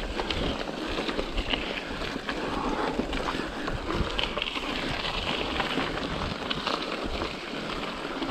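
Mountain bike being ridden over a trail: a steady rolling, rushing noise with scattered clicks and knocks from the bike and ground.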